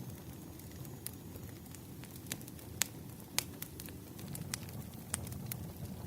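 Wood fire crackling: sharp, irregular pops and snaps over a low, steady rumble.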